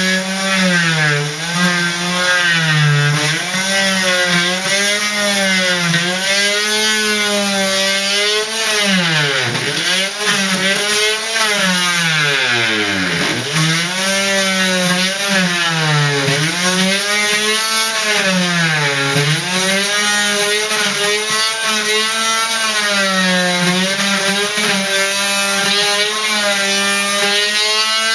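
Power tool motor running continuously under changing load, its pitch sagging and picking back up again and again, dropping deepest about ten and thirteen seconds in.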